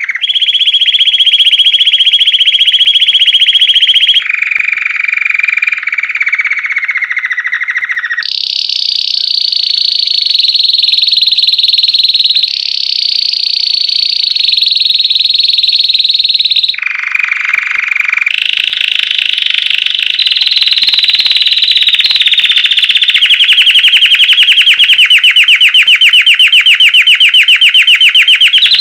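Belgian canary singing a loud, continuous song of rolled trills in the classic 'campainha' bell style. Each trill holds a steady pitch for a few seconds, then jumps to a higher or lower one, and the song ends in a fast, evenly pulsed trill.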